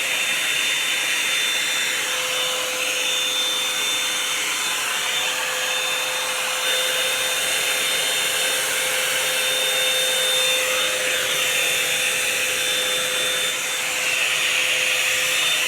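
Revlon One-Step Hair Dryer and Volumizer, a hot-air brush, running steadily and blowing air: an even rush of air with a constant hum and a high whine.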